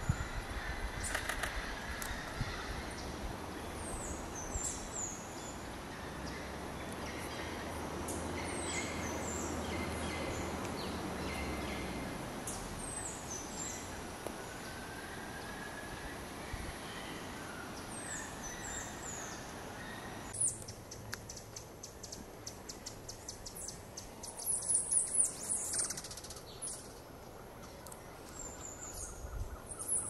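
Wild birds calling: thin, very high notes that slur downward, in groups of two or three, repeated every few seconds over a steady background hiss. About twenty seconds in the background changes suddenly, and quick runs of high chips follow near the end.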